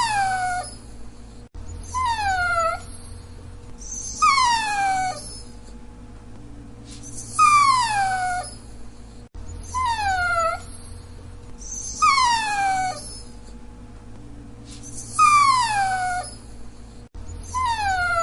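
Dachshund whining in repeated high, falling whimpers, each about a second long, about eight of them one to three seconds apart.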